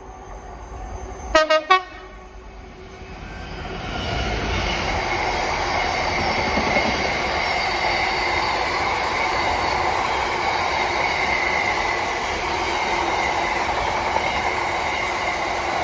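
A train sounds three short horn blasts about a second and a half in, then runs past close by, its loud steady rush building over a couple of seconds and holding.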